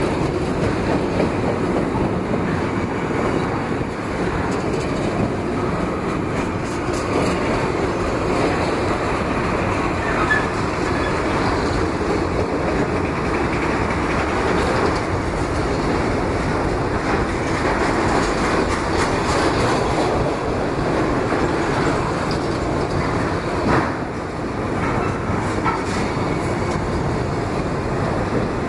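Freight train of enclosed autorack cars rolling past close by: the steady rumble and clatter of steel wheels on the rails.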